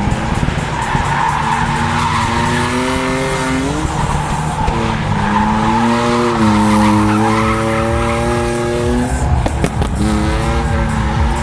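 BMW E36 Compact's inline-six engine at high revs while drifting, the revs climbing and holding in long pulls and dropping sharply twice, over steady tire squeal.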